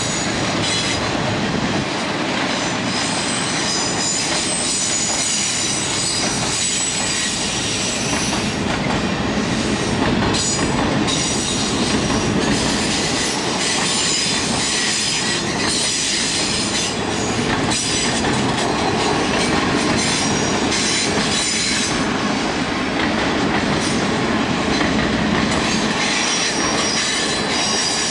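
Ringling Bros. circus train's cars rolling steadily past, steel wheels clicking over the rail joints, with high-pitched wheel squeal coming and going.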